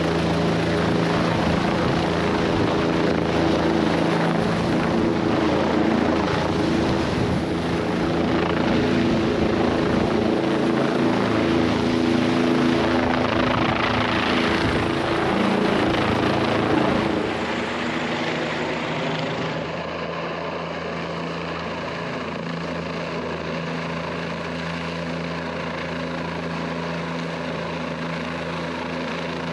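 Helicopter running nearby, a steady rotor and engine sound that is loud for the first half and then drops to a lower, steadier level about two-thirds of the way through.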